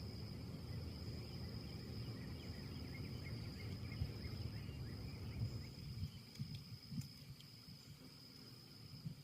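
Wind gusting, a low rumbling noise that eases about six seconds in, over a steady high-pitched insect trill.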